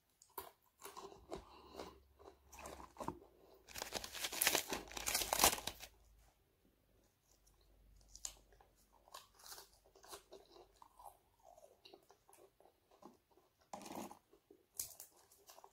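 A person chewing and crunching crisp fried dried fish with cabbage. A loud run of crunching comes about four seconds in and lasts about two seconds, followed by softer chewing with scattered crunches and another brief loud crunch near the end.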